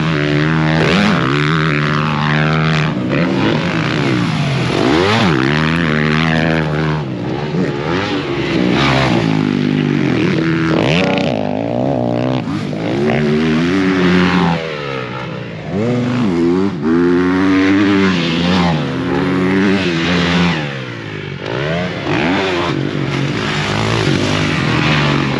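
Motocross bike engine revving hard, its pitch climbing and dropping over and over as the rider opens and closes the throttle and shifts around the track.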